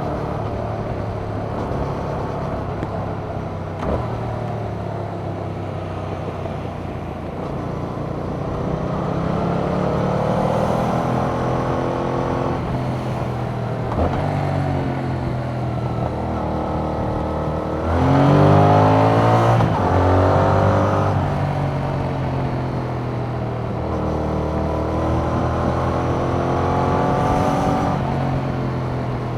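A Yamaha MT-07's 689 cc parallel-twin engine, breathing through its stock exhaust, pulls through the gears on a winding road, its pitch rising and falling as the throttle opens and closes. Brief clicks come about 4 and 14 seconds in. The hardest, loudest acceleration comes about 18 seconds in, with a sharp climb in pitch.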